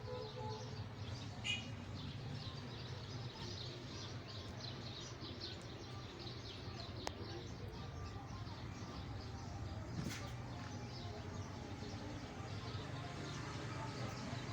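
Small birds chirping and twittering continuously over a steady low hum, with an occasional sharp click.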